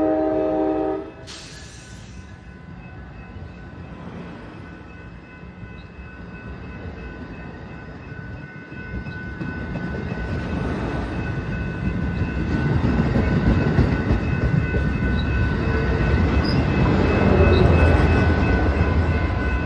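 Amtrak 9700's multi-note horn chord cuts off about a second in, followed by a brief hiss. The train then rumbles along the tracks, growing louder through the second half, with steady high ringing tones over it.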